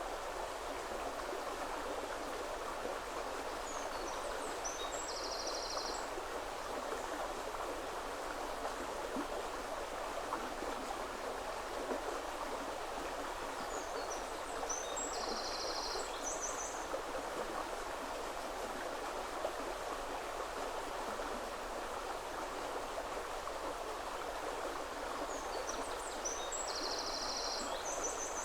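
Woodland river flowing with a steady rushing sound. A small bird sings a short, high, rapid trill three times, about ten seconds apart.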